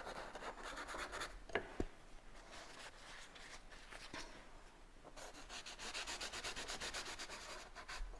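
A drawing tool scribbling back and forth on the painting surface in quick, even strokes, shading in a shadow area. It runs in two spells, at the start and again from about five and a half seconds to near the end.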